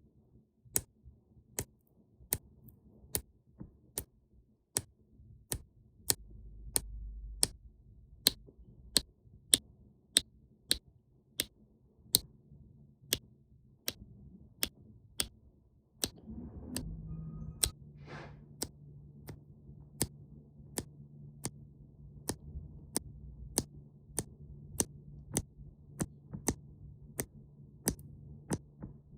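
Steady, evenly spaced ticks, a little more than one a second, over a low hum that settles into a constant low drone about halfway through.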